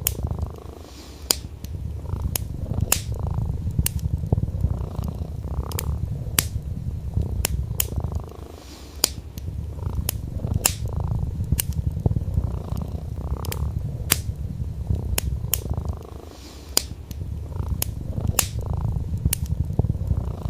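Domestic cat purring steadily, with short dips about every eight seconds, over the crackle of burning wood in a fireplace, whose sharp pops come one or two a second.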